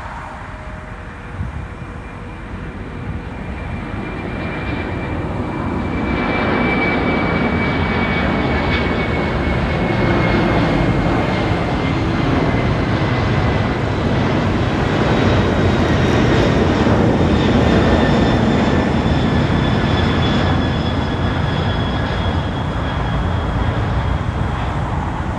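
Cargo jet's engines at takeoff power as it lifts off and climbs out: a loud rushing engine noise that builds over the first six seconds and then holds, with high engine whines slowly falling in pitch.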